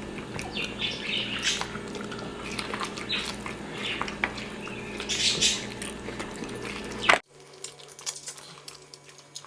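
Wet, messy eating sounds from shrimp and lobster in buttered garlic sauce: smacking, chewing and sucking with many small clicks. The sounds stop abruptly about seven seconds in, leaving only a quiet low hum.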